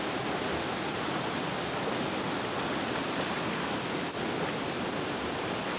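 Steady rush of river water pouring over a dam and through the rapids below it.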